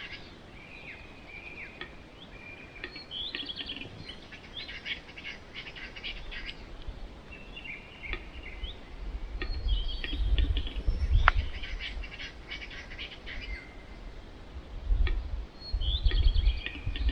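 Wild birds chirping and calling repeatedly in a forest, short sliding notes and clicky phrases. A deep rumble rises under them from about halfway through and again near the end.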